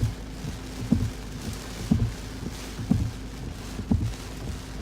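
Windshield wipers beating in heavy rain, a thump about once a second, over the car's steady low hum.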